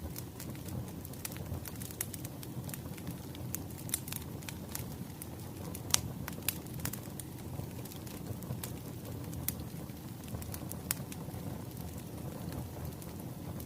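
Wood fire crackling: a steady low rumble of burning logs with frequent sharp pops and snaps, the loudest pop about six seconds in.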